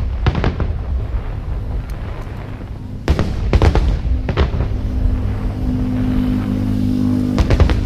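Aerial fireworks bursting: several sharp bangs at uneven intervals over a continuous low rumble of shells going off.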